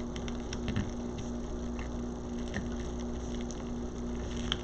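Light crackling and rustling of wired ribbon being handled and twisted onto a wreath board, scattered small crinkles over a steady low hum.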